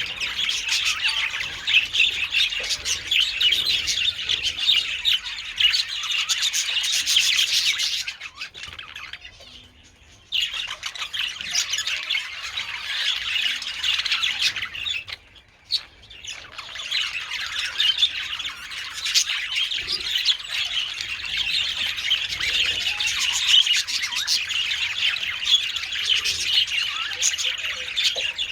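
A flock of budgerigars chattering and warbling with many overlapping chirps and squawks. About eight seconds in the flock falls quiet for two seconds, and around fifteen seconds it cuts off suddenly for a second before the chatter resumes.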